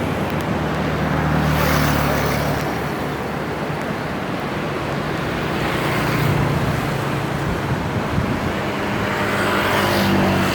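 Road traffic: motor vehicles passing, engine hum and tyre noise swelling and fading about every four seconds.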